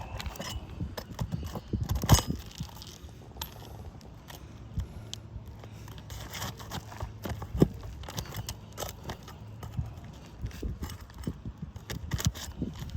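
Scattered light scrapes and clicks from hands and tools working on asphalt roof shingles, with sharper knocks about two seconds in and again near eight seconds.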